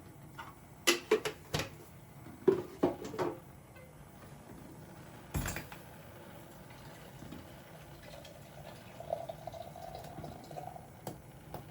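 Dishes and utensils being handled in a kitchen: two quick clusters of clinks and knocks in the first few seconds, a single heavier thump about five seconds in, and a few light clicks later.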